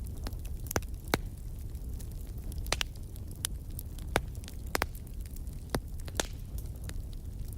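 Campfire crackling: irregular sharp pops and snaps from burning wood, about ten loud ones among many faint ticks, over a steady low rumble.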